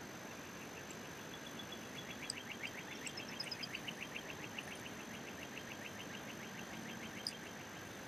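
A songbird's long, rapid trill of short downslurred notes, about eight a second, with a few thin, high chips from another bird mixed in.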